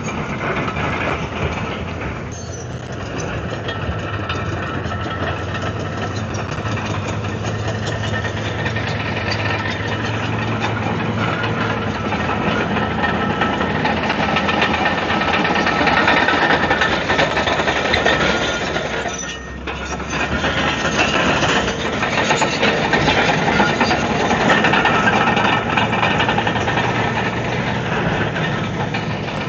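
Komatsu D155AX-7 crawler bulldozer working rock: its diesel engine runs under load over a dense clatter of steel tracks and stone. The sound eases briefly about two-thirds of the way through, then picks up again.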